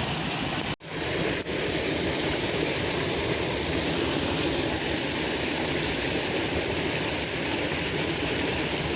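Steady rushing noise, with a brief sharp dropout just under a second in, then steady again.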